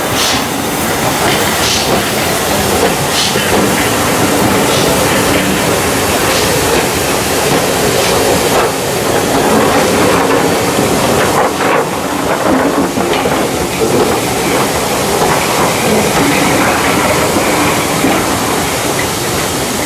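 Railway passenger coaches rolling past close by, a steady rumble of wheels on rail with repeated clicks as the wheels cross rail joints.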